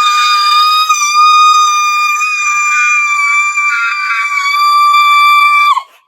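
A long, loud siren-like warning wail sounding the storm alert. It glides up at the start, holds one high, steady pitch for about six seconds, then drops away and stops near the end.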